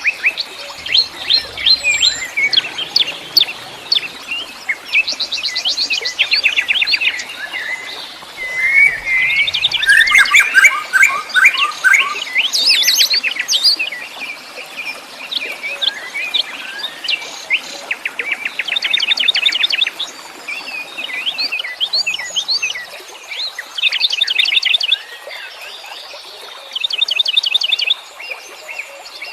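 Several wild birds singing and chirping together: overlapping fast trills and rapid repeated chirps of different kinds. A louder bout of lower, busier chirping comes about ten seconds in.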